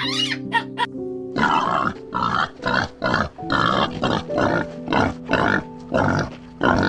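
Pig grunting in a rapid series, about two grunts a second, beginning about a second and a half in, over piano music.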